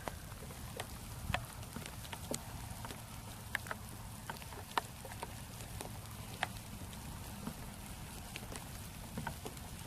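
Pouring rain: a steady hiss with scattered sharp ticks of drops.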